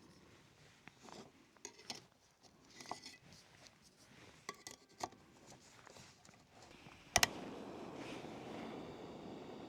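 Camp cooking gear being handled with small clicks, clinks and rustles. About seven seconds in, a sharp click is followed by a steady hiss, typical of a backpacking stove burner being lit to heat water.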